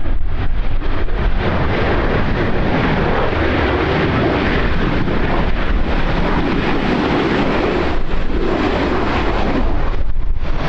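Aircraft engines running as a plane passes, a steady broad rumble mixed with wind buffeting the microphone; the engine sound thins out near the end.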